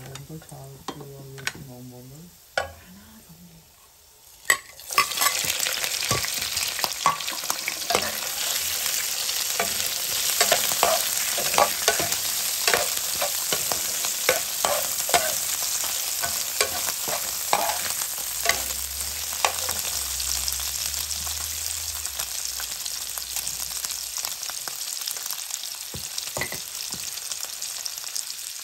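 Minced garlic frying quietly in oil in a pan. About five seconds in, whole shrimp go into the pan and a loud, steady sizzle starts, with frequent clicks and scrapes from the utensil as the shrimp are stirred and turned.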